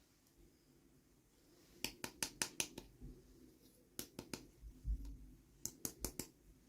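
Small plastic toy pieces and packaging being handled during an unboxing: three quick runs of sharp clicks and taps, with a soft low thump between them.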